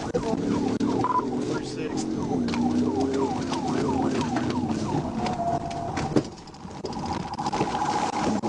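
Police cruiser siren in fast yelp, a rapid falling sweep repeating about four times a second. The sweeps stop about five seconds in, there is a sharp knock about a second later, and a steadier tone follows.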